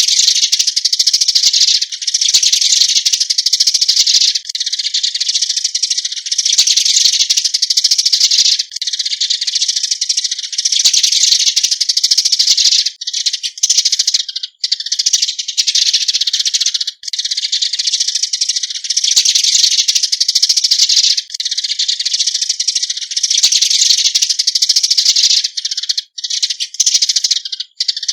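Eurasian tree sparrows giving their flock-gathering call: a loud, dense, unbroken stream of high-pitched chirps and chatter, with only a few split-second breaks.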